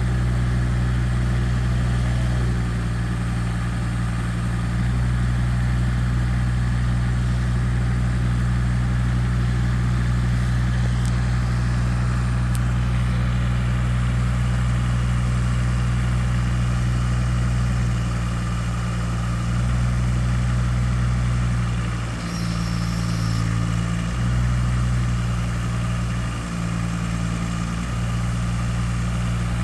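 A large engine running steadily at a low pitch. Its speed dips and shifts briefly twice near the end.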